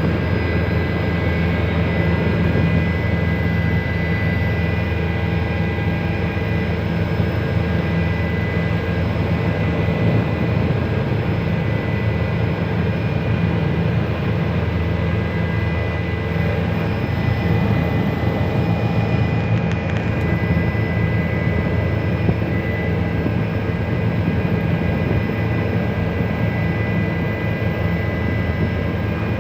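Helicopter in flight: steady engine and rotor noise with a thin, steady high whine running over it.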